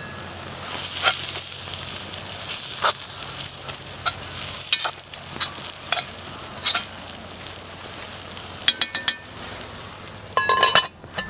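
Food frying with a steady sizzle, punctuated by clicks and scrapes of a cooking utensil, then a few ringing metallic clinks near the end.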